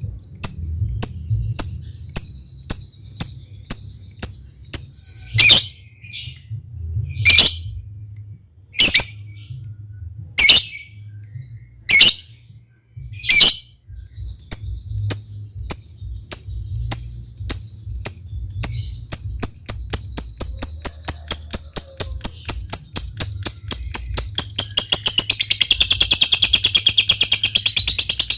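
Lovebird calling: a run of sharp ticking chirps, about two or three a second, with a few louder squawks in between. The ticks then speed up and near the end run into a loud, fast, continuous chatter, the lovebird's long 'ngekek' trill. A low hum sits faintly beneath.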